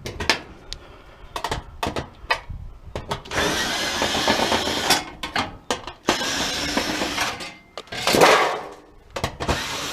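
Handheld power tool running in bursts of a second or two while parts of an old electric stove are pulled apart for scrap. Sharp knocks of metal parts being handled come in the first few seconds.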